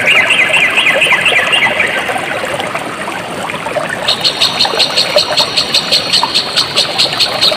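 Stream water trickling and flowing steadily, with small animal calls over it: a quick chirping series in the first two seconds, then from about halfway a high, rapid pulsed call of about five pulses a second.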